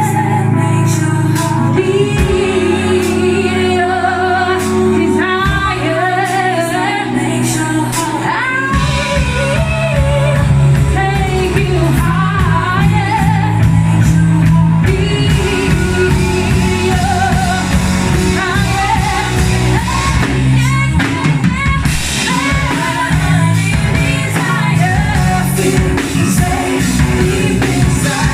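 Live band performing a song with a woman singing lead over bass, chords and drums; the drums and bass come in fuller about nine seconds in.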